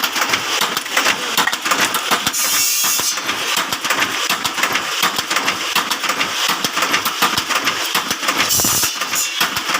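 Bamboo satay-skewer (lidi) making machine running, with a dense, fast clatter that goes on steadily.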